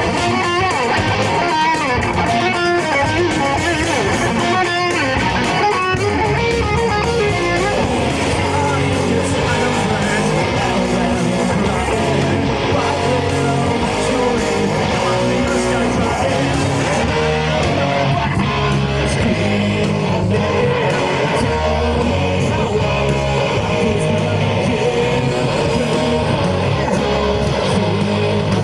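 Live rock band playing an instrumental passage: electric guitars with bass guitar underneath, played loud and steady.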